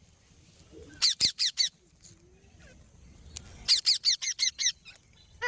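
A parrot giving rapid, high-pitched squeaky calls in two quick runs, each call falling in pitch: about four calls about a second in, then about seven more a little past the middle.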